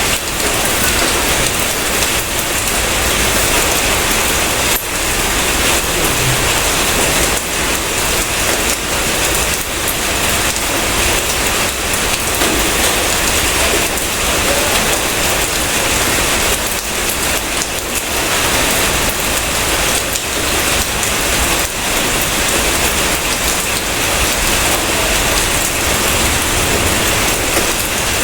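Steady heavy rain falling, an even dense hiss without let-up.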